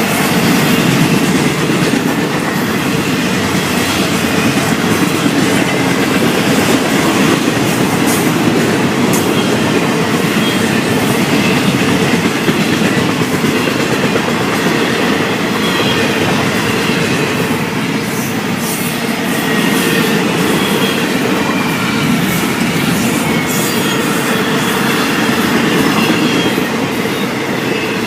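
A Florida East Coast Railway freight train's cars rolling past steadily, with continuous wheel-on-rail rumble and clatter and some wheel squeal.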